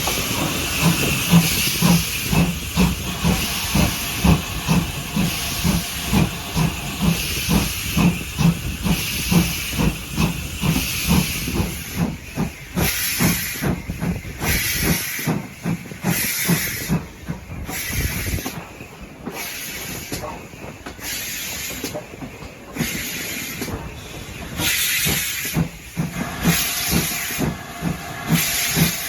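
Steam locomotive working, its exhaust beating rhythmically with a steady hiss of steam. The beats come quick and even at first; about halfway through they give way to slower, separate bursts of steam, roughly one a second.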